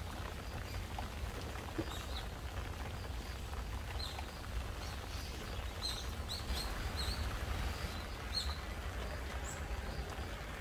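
Steady hiss of gentle rain falling on foliage, with a small bird giving scattered short, high chirps from about two seconds in until near the end.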